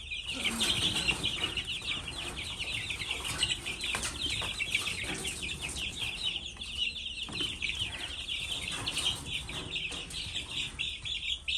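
A brood of young chicks peeping nonstop, many short high chirps overlapping into a continuous chatter.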